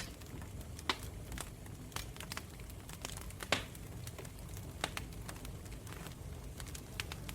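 Campfire burning, with a steady low rumble of flames and irregular sharp crackles and pops from the wood, the loudest about halfway through.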